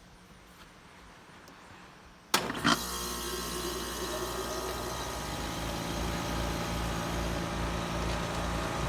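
2022 Trane XR14 3.5-ton heat pump outdoor unit starting up in cool mode: a sudden clunk a little over two seconds in, then the compressor and condenser fan run with a steady hum and a low throb that grows stronger partway through.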